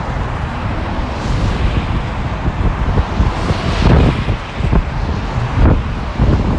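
Wind buffeting the phone's microphone, with road traffic going by on a wet street; a passing vehicle's hiss swells about three and a half seconds in.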